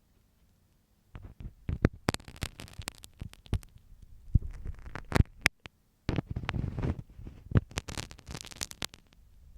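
A marking pin scraping and tapping inside an ear for ear-cleaning ASMR: close, crackly scratching and sharp clicks. It starts about a second in, with a brief pause around the middle.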